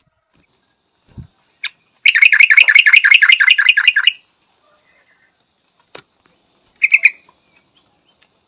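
Yellow-vented bulbul calling: a loud, rapid run of about a dozen bright chattering notes, about six a second, lasting some two seconds. Later comes a sharp click and then a short burst of the same notes.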